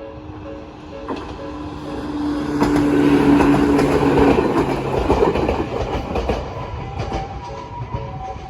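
A Jōmō Electric Railway train passing over a level crossing, swelling to its loudest about three seconds in with wheels clacking over the rail joints, then fading. Under it the crossing's electronic warning bell, a Nikko-type tone, keeps ringing in an even repeating pattern.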